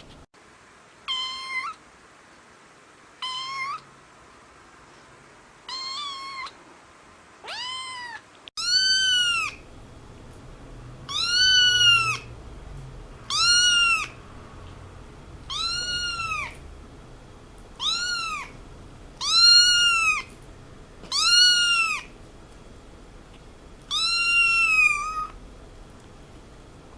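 Domestic cat meowing over and over: about a dozen separate meows, each rising and then falling in pitch, roughly every two seconds. The first four are fainter and thinner, and from about eight seconds in the meows are louder.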